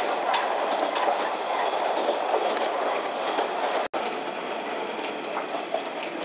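A KiHa 40-series diesel railcar running along the line, heard from inside the car: a steady noise of wheels on rail with a few faint rail-joint clicks. It cuts out for an instant about four seconds in.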